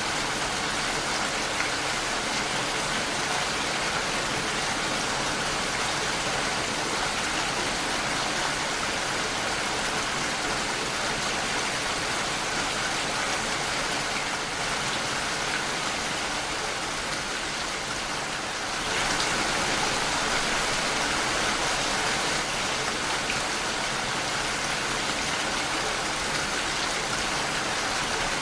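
Steady rain pattering against a window pane, an even hiss of drops with no single standout hits. It grows a little louder about two-thirds of the way through.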